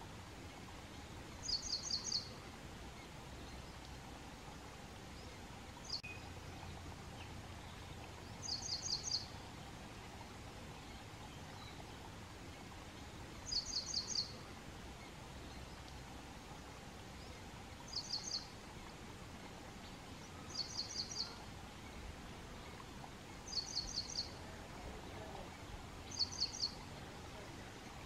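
Ashy prinia singing: seven short phrases, each a quick run of four or five high notes, repeated every few seconds over steady background noise.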